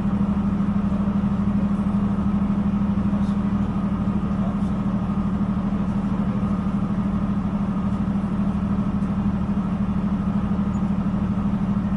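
Diesel multiple unit train running, a steady low drone with a constant hum, heard from inside the carriage.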